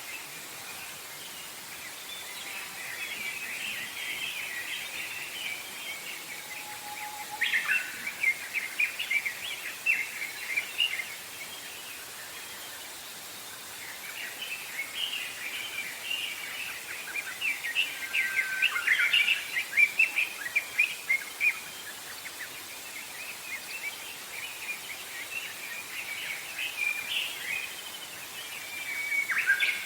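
Wild songbirds chirping and trilling in a forest, several short calls overlapping in busy spells, over a steady faint hiss.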